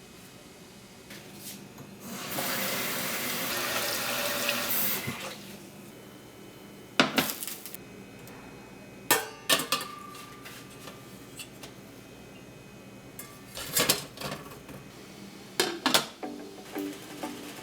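Kitchen tap running for about three seconds, then scattered sharp clinks and knocks of dishes and utensils being handled. Plucked-string music comes in near the end.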